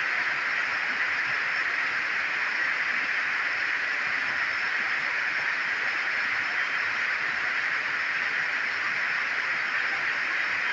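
Heavy rain falling, a steady, even hiss with no letup.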